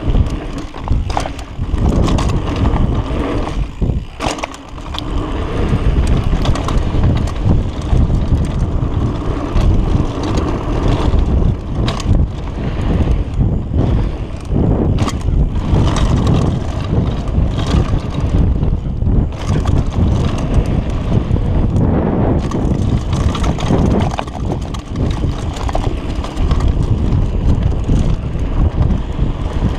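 Mountain bike descending a rough dirt downhill trail: wind buffeting the microphone over the rumble of tyres on dirt, with frequent sharp clicks and knocks from the bike rattling over bumps.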